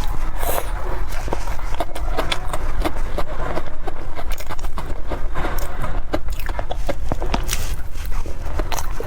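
Close-miked eating sounds: chewing, with many small irregular mouth clicks and crackles, over a steady low rumble.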